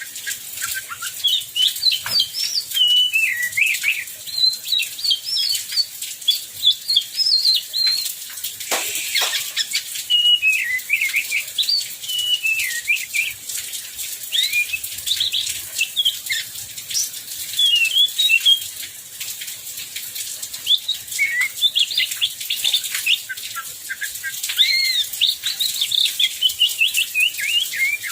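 Oriental magpie-robin singing a long run of quick, varied whistled phrases, over a steady hiss of heavy rain.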